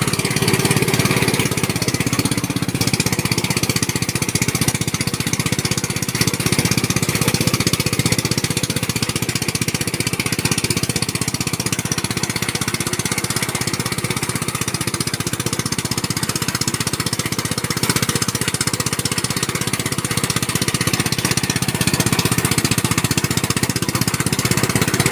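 Small engine of a rice harvesting machine running steadily at constant speed, with a fast, even rattle.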